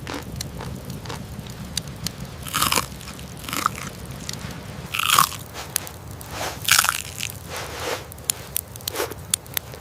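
Eating sounds: crunchy bites and chewing, a bite every second or two, with a few sharp crackles near the end.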